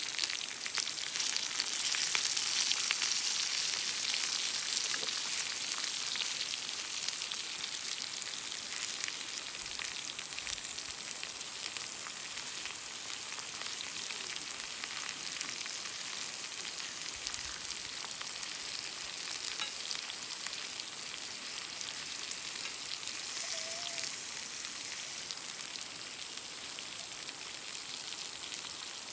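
Steak sizzling as it cooks over a wood fire: a steady high hiss of frying fat with many fine crackles, a little louder in the first few seconds.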